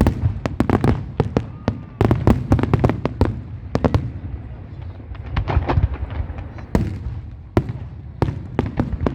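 Aerial fireworks bursting in rapid volleys of sharp bangs and crackles over a continuous low rumble of booms. The bangs come thickest about two to four seconds in, then more sparsely, with single loud cracks near the end.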